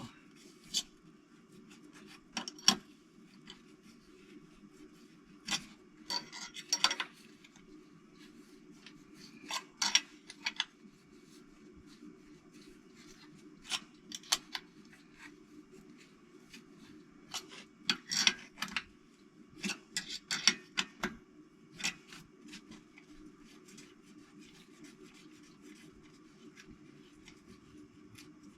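Metal hand tools clicking and clinking in short, scattered bursts as bolts on a Toyota 4A-GE engine are tightened down to torque, with a steady low hum underneath.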